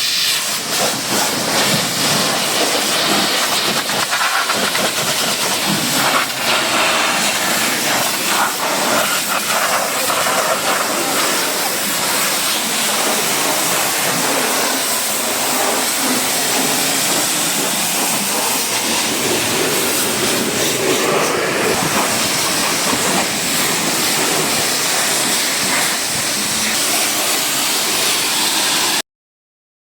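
Steady hiss of a pressure-washer water spray, with no break until it cuts off suddenly near the end.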